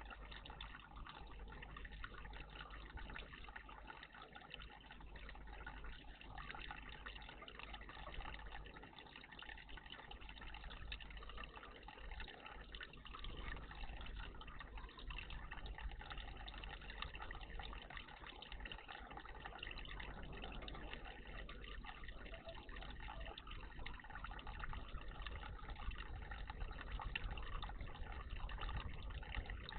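Water running and splashing steadily in a garden bird bath, faint and continuous.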